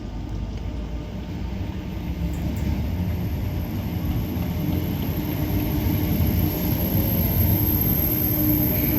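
Northern Class 769 bi-mode multiple unit pulling away from the platform: a low rumble with a steady hum that grows steadily louder as the train gets under way.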